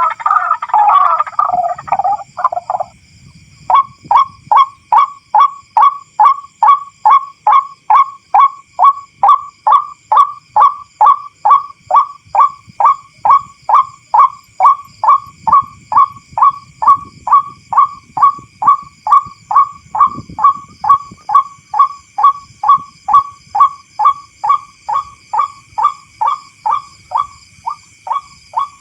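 White-breasted waterhen calling: a few seconds of harsh, jumbled cackling that breaks off, then a steady monotonous 'ruak' note repeated about twice a second. A faint high steady whine runs behind it.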